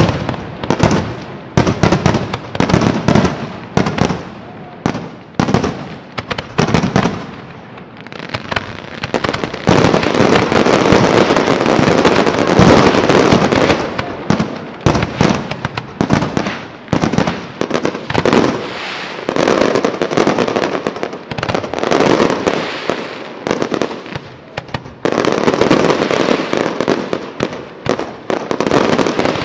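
Fireworks display: a fast series of bangs from shell bursts, turning into a dense, continuous barrage about ten seconds in and again near the end.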